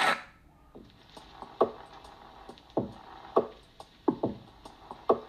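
The sparse percussive intro of a song played through a Bang & Olufsen Beosound Explore portable Bluetooth speaker. It is about half a dozen short, irregularly spaced drum-like hits, each dropping in pitch. It starts right after the previous track's crowd noise cuts off.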